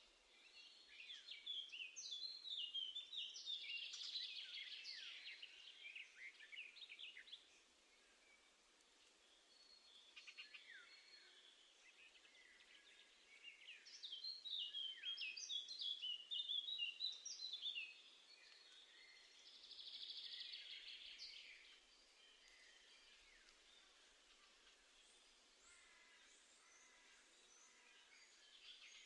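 Small songbirds singing and calling in spells of quick, high chirps and trills. The calls are loudest in the first and middle parts and fade to faint calls in the last third.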